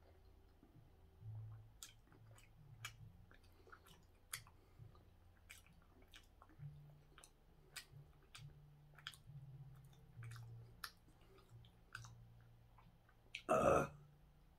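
Close-up chewing of a soft Korean steamed bun (hoppang), with many small wet mouth clicks. Near the end comes one brief, loud rush of noise.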